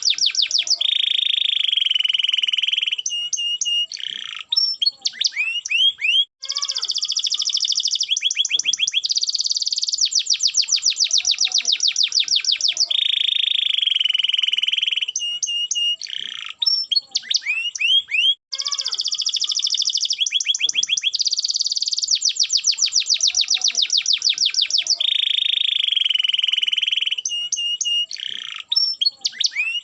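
Domestic canary singing, long fast trills and rolls broken by rising whistled notes. The same song sequence comes round about every twelve seconds.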